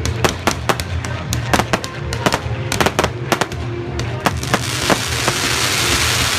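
Fireworks display: rapid aerial shell bursts, several sharp bangs a second, with music playing underneath. About four and a half seconds in the bangs stop and a steady hiss takes over.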